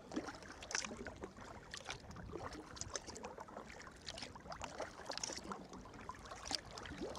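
Sea kayak paddle strokes: the blades dipping in and out of the water with small splashes and drips, irregular, a few a second.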